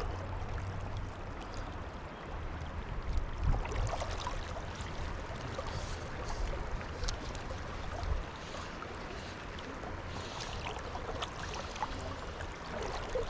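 Fast river water rushing steadily, with a low rumble underneath and a few brief swells and light knocks.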